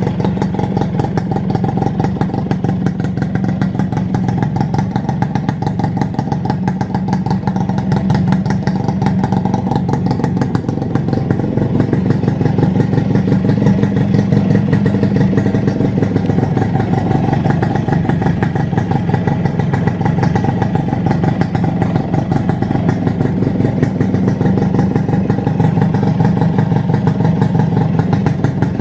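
Suzuki Satria Hiu's two-stroke single-cylinder engine idling steadily, a little louder from about twelve seconds in. The freshly rebuilt engine runs smooth rather than noisy, left running to break in the new piston.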